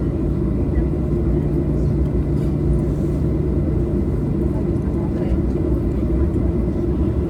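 Boeing 737-800 cabin noise with its CFM56-7B jet engines running at low power: a steady low rumble, with a low hum that fades out about two-thirds of the way through.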